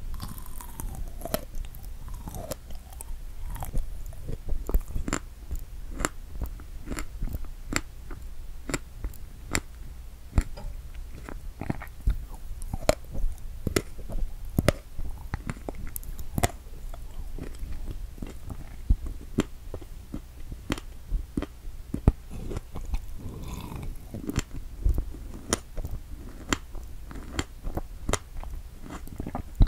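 Close-miked chewing of a strawberry: wet, crunchy bites and mouth clicks, irregular and closely spaced.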